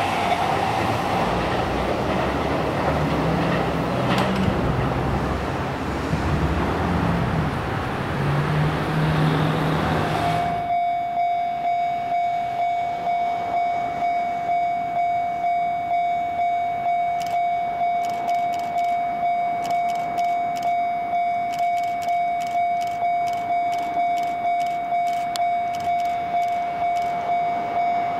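Sotetsu 20000 series electric train running past with a rumble and a low motor hum that steps in pitch. About ten seconds in the sound cuts abruptly to a Japanese level-crossing alarm ringing a steady single tone, about two rings a second.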